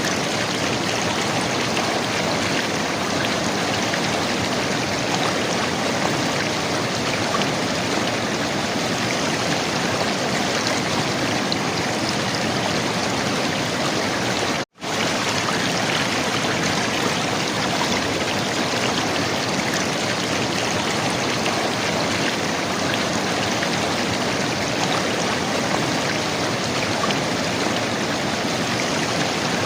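River water gurgling and rushing steadily. About halfway through, the sound drops out completely for a split second and comes straight back.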